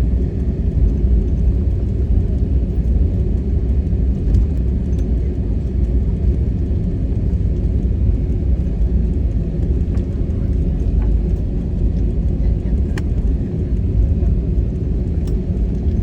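Steady low engine rumble of a vehicle, even throughout, with a few faint clicks over it.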